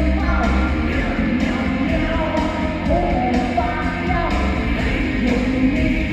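A solo voice singing sustained, gliding notes over a loud musical accompaniment with a steady beat.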